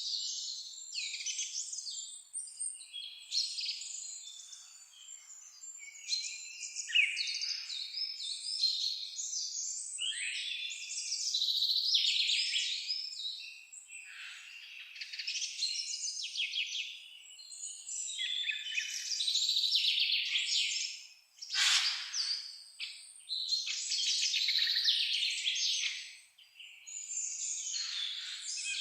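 Several songbirds singing at once, a dense run of overlapping, trilling and warbling phrases with hardly a pause. A brief sharp sound cuts through about three-quarters of the way in.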